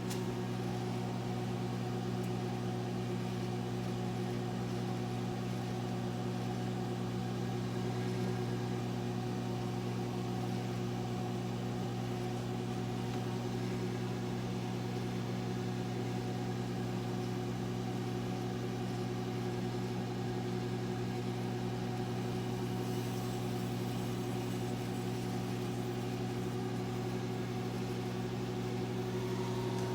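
Microwave oven running on a cooking cycle: a steady, even hum.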